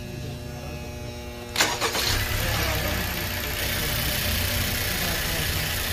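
A low steady hum, then about a second and a half in the Honda Civic's engine is cranked by its starter and catches almost at once, settling into a steady idle. The car was brought in for a strange noise on starting that persisted after a new starter, and the battery is suspected.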